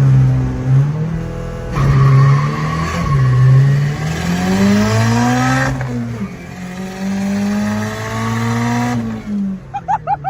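Honda K-series four-cylinder in a Ford Ranger revving hard, its pitch climbing and falling several times, with the rear tires squealing as the welded differential spins both rear wheels together. The engine drops back near the end.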